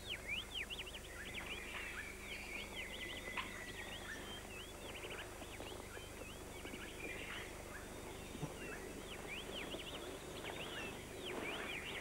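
Many high, quick bird chirps and twitters from several birds, repeating all through, over a faint thin steady trill.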